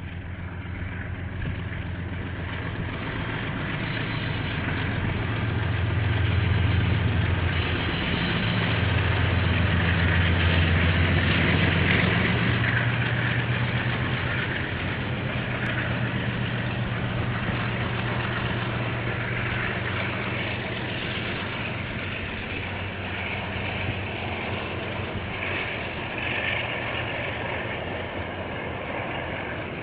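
KiwiRail freight train passing: the diesel-electric locomotives' engines hum loudly as they go by, then give way to the steady rumble of container wagons rolling over the rails.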